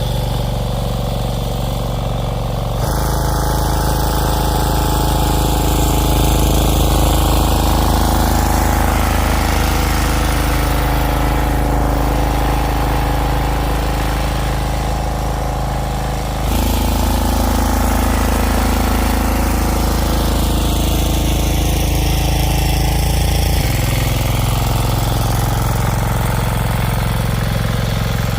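A small engine running steadily, with sudden changes in its sound about 3, 16 and 24 seconds in.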